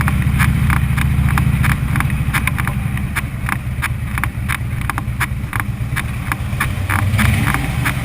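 Motorcycle engine running at low speed with a steady low rumble and a quick, regular ticking above it.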